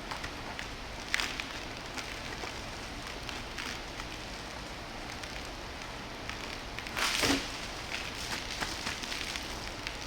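Water spattering and dripping during a car wash, in irregular small splashes, with one louder splash about seven seconds in.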